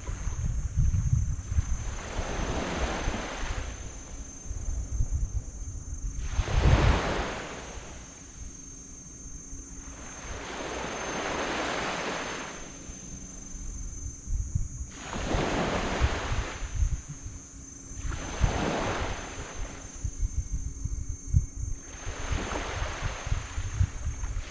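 Small waves washing onto a black sand beach, one break every three to four seconds, each a brief rush of surf. Wind buffets the microphone with a low rumble throughout.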